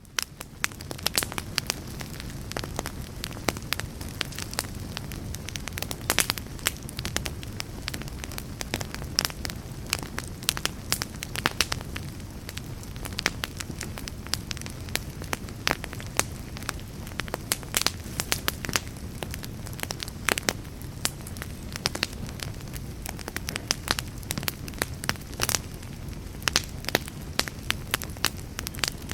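Wood fire burning in a fireplace: frequent sharp crackles and pops, several a second, over a low steady rumble of flame. It fades in at the very start.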